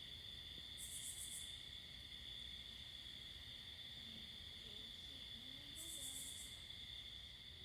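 Faint insect chorus of crickets trilling steadily, with two short, higher-pitched buzzes, one about a second in and one near six seconds.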